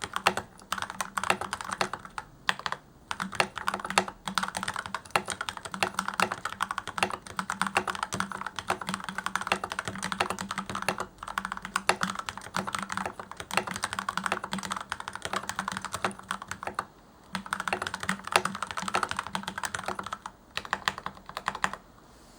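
Continuous fast typing on a mechanical keyboard with Gateron Yellow linear switches lubed with white lithium grease, stabilizers clipped and taped with plumber's tape, and masking tape on the back of the PCB. The keystrokes come in rapid irregular runs with a few short pauses, and the typing stops just before the end.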